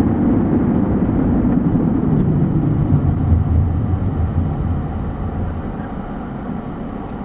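Steady low rumble of a car driving, heard from inside. It dies down over the last few seconds, as if the car is slowing.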